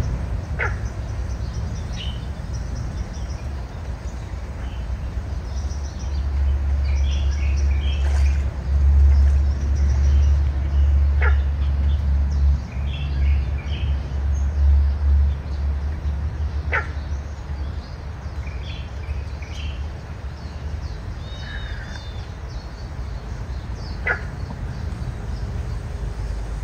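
Several birds calling: scattered short chirps and a few brief sharp calls. Under them a low rumble swells for several seconds in the middle and then eases.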